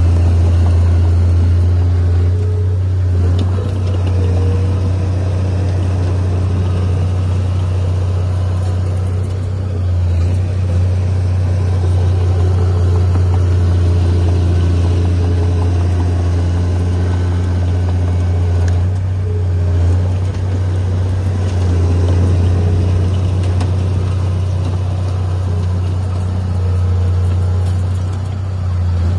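Heavy construction-machine diesel engine running steadily at an even pitch, with brief small dips in level a few times.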